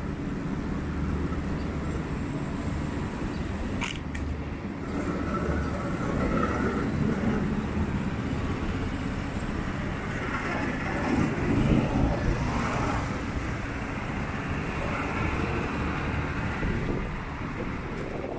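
Street traffic going by: a continuous rumble of passing vehicles that swells as they come close, loudest about two thirds of the way through. There is a brief sharp click about four seconds in.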